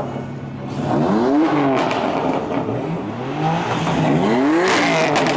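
Car engines revving in several quick blips, each pitch rising and dropping back, over a steady idle, with a short burst of noise near the end.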